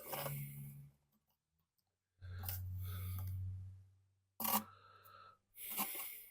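Intermittent handling sounds of parts being worked by hand: rustles and scrapes, a sharp click or knock about four and a half seconds in, and a short burst of noise near the end.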